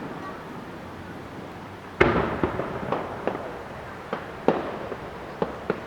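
Fireworks display: a loud aerial shell burst about two seconds in, echoing, followed by a scattered string of smaller sharp bangs.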